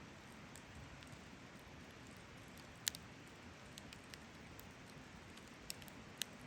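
Wood campfire crackling faintly, with a few sharp pops; the loudest comes about three seconds in and two more near the end.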